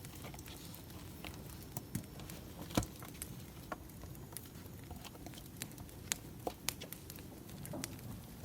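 Burning firewood crackling: irregular snaps and pops over a steady low rumble, with one sharper pop about three seconds in.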